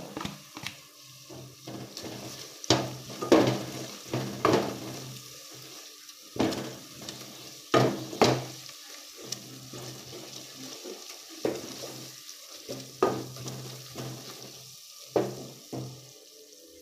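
A spoon stirring and scraping in a pot of onions frying in oil with ginger and garlic added. The oil sizzles steadily, broken by irregular scrapes against the pot.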